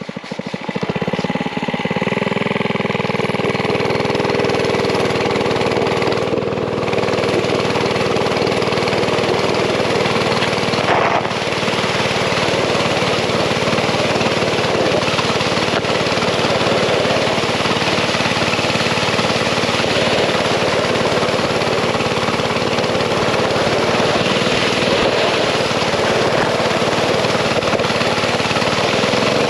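Mini bike engine picking up speed as it pulls away, its pitch rising over the first couple of seconds, then running steadily under load while towing a sled.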